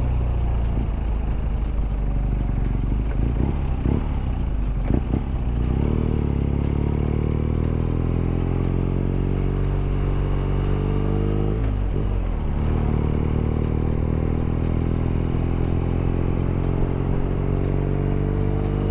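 Motorcycle engine running under way, steady at first, then its pitch climbing slowly as the bike gathers speed; it dips briefly about twelve seconds in, then climbs again.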